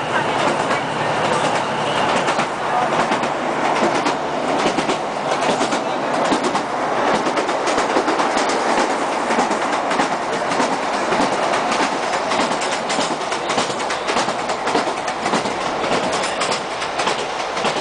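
ScotRail Class 156 diesel multiple unit running at speed, heard from inside the carriage: a steady rumble of wheels on the rails with a constant fine clatter. A faint high whine stops about two seconds in.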